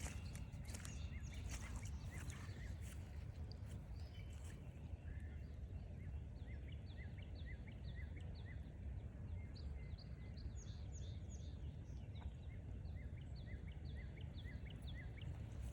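Songbirds chirping: runs of quick, short chirps repeated many times from about six seconds in, over a steady low background rumble. A few footsteps on the trail sound in the first seconds.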